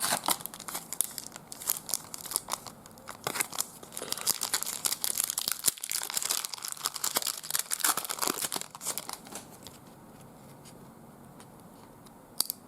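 A trading card pack wrapper crinkling and tearing as it is opened, a rapid crackle that lasts about nine seconds and then dies down.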